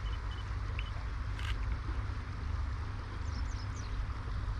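Wind buffeting the microphone as a low, uneven rumble over the steady rush of a river. A few faint, short, high chirps come about three seconds in.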